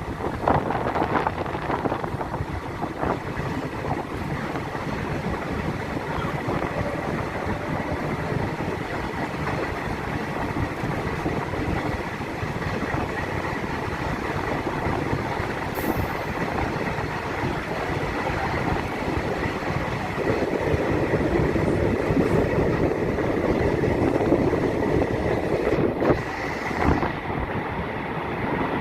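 Passenger train running along the track: a steady rumbling noise, growing somewhat louder about two-thirds of the way through.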